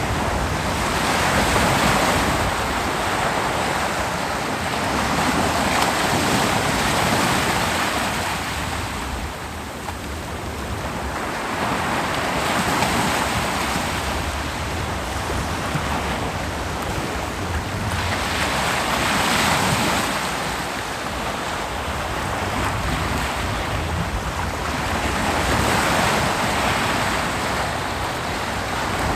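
Ocean surf breaking and washing up a beach: a continuous rush that swells with each incoming wave, about every six seconds, then fades back.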